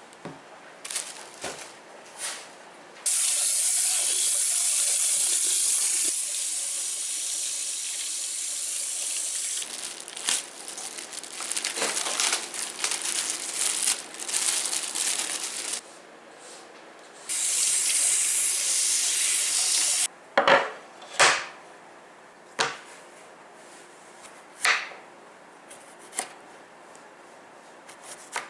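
Water tap running into a sink: a steady rush starts about three seconds in, turns to uneven splashing as something is rinsed under it, stops, then runs again briefly. Several sharp clicks and knocks follow in the last third.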